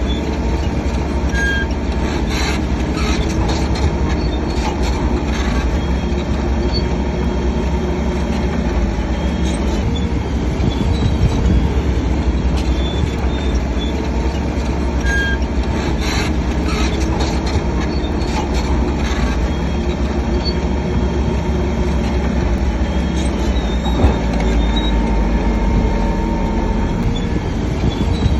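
Crawler bulldozer's diesel engine running steadily under load, with its steel tracks clanking and squealing as it works.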